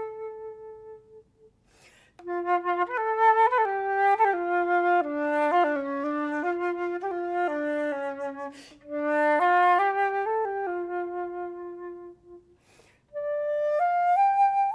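Solo concert flute playing a stepwise melody in three phrases, with short pauses between them about 2, 9 and 13 seconds in.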